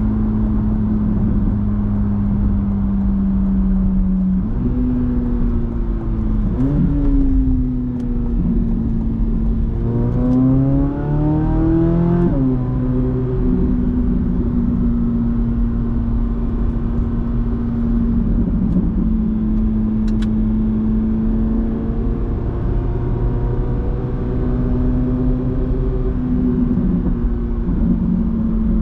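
The 5.5-litre naturally aspirated flat-plane-crank V8 of a Corvette C8 Z06 runs at steady cruising revs, with a couple of short rises in revs. About ten seconds in it pulls hard, the revs climbing for a couple of seconds before dropping suddenly, then it settles back to a steady cruise.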